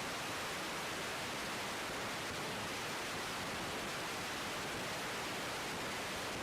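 Steady hiss of static from an air traffic control radio frequency in a gap between transmissions.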